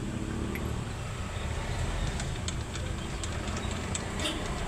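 Isuzu 10PC1 diesel truck engine running steadily on test after its injection pump and injectors were recalibrated.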